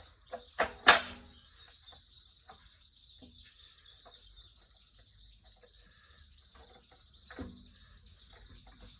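Three sharp knocks of metal parts or tools being handled, the last and loudest about a second in, then another knock near the end, as engine parts are worked into place on the tiller. A faint steady high-pitched tone runs behind them.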